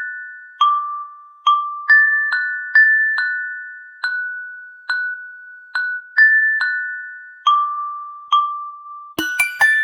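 A slow melody of single bell-like mallet notes on a few pitches, each struck and ringing out, about one every half second to a second; no rain is heard. Near the end a quick flurry of brighter, clickier notes joins in.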